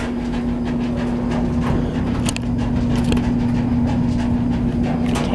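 Clothes dryer running: a steady electric-motor hum over a low tumbling rumble, with a few faint knocks.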